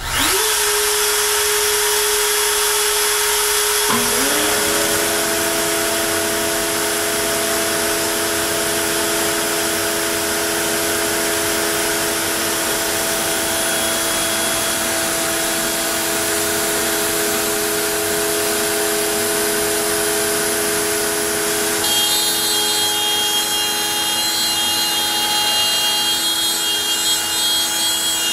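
A CNC router and its dust extraction spinning up: one motor winds up at the start and a second about four seconds in, then both run steadily with a dense cutting noise as the bit routs the board. About three-quarters of the way through, a higher whine joins in.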